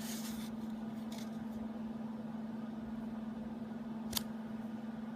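Steady low background hum with one sharp click about four seconds in.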